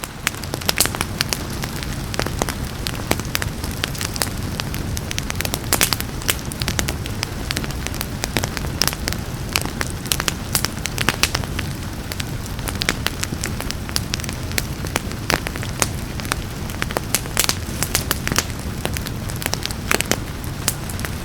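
Wood fire crackling, with frequent irregular sharp snaps and pops over a steady low rumble of burning, and a soft hiss of rain blended in.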